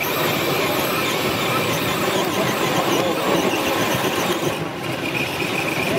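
Radio-controlled scale truck straining to pull a weighted sled, its motor giving a steady high whine over a dense rushing noise. The whine is strongest near the end.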